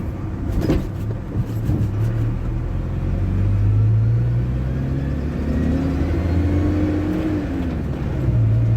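GAZ-2790 van's ZMZ-405 four-cylinder petrol engine under way, heard from the cab, rising in pitch for a few seconds as it is revved toward 2000 rpm, then dropping as the throttle eases about seven seconds in. Above 2000 rpm the owner hears a rustling squeak from the timing-chain drive, which appeared after he fitted a new upper chain tensioner.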